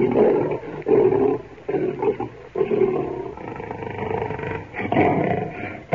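Lion roaring: a run of loud, rough calls that rise and fall with short breaks between them.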